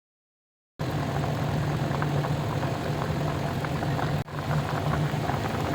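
Coconut-milk fish curry simmering in a pan: soft bubbling and small pops over a steady low hum. It starts abruptly just under a second in, with a brief break about four seconds in.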